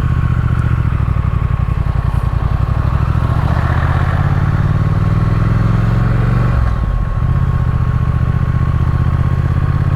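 Triumph Speed Twin's parallel-twin engine running under way on a motorcycle. Its note rises a few seconds in and breaks briefly about two-thirds of the way through before running on steadily.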